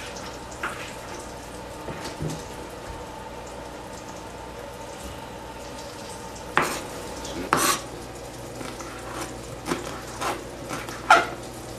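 Steady soft sizzle of veggie chicken nuggets frying in a pan, with scattered clicks and knocks of dishes and a knife on a plastic cutting board, more of them in the second half.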